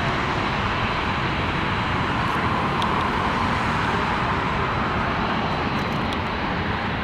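Jet airliner taking off, its engines at take-off thrust making a loud, steady rush of noise that slowly fades.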